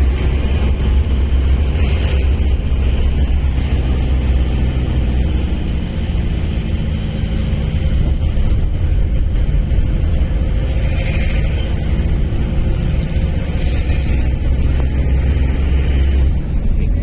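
Engine and road noise of a moving vehicle: a steady, loud low rumble that holds evenly without revving.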